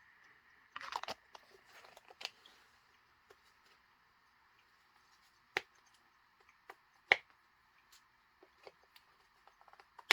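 Small plastic containers and packaging being handled: a short rustle about a second in, then scattered light clicks and taps, with two sharper clicks in the middle.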